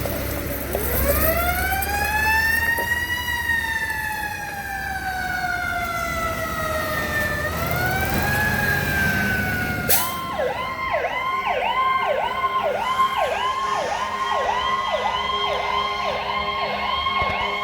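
Sirens of a fire engine and medic unit on an emergency response. A slow wail rises over a couple of seconds, then falls slowly with a short rise again. About ten seconds in, a fast yelp takes over, around two sweeps a second.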